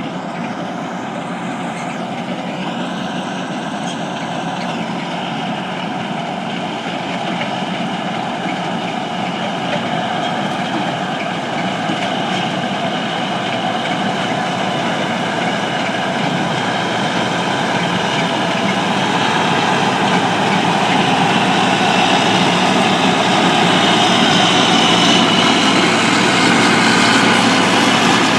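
Heavy harvest machinery running steadily, a dense mechanical drone that grows gradually louder.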